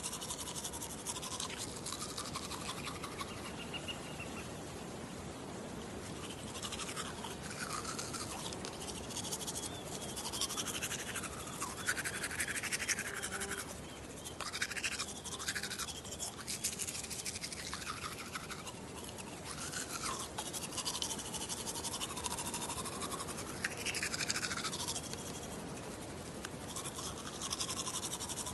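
Teeth being brushed with a toothbrush: continuous close-up bristle scrubbing. The hollow tone of the mouth shifts up and down as the brush moves around.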